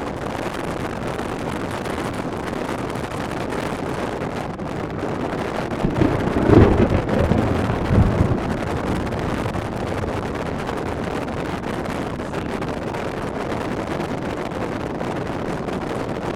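Strong wind buffeting the microphone, a steady rush with heavier low gusts about six to eight seconds in.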